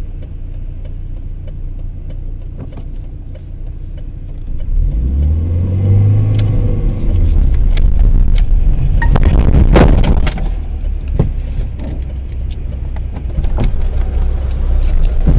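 Car dashcam audio: a steady low rumble of road and engine noise, then an engine note rising about five seconds in, then a sudden cluster of loud impacts about nine to ten seconds in, the sound of a collision, followed by a few scattered knocks.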